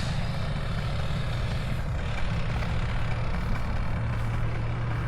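A small engine running steadily at an even speed, a low hum under a wash of noise.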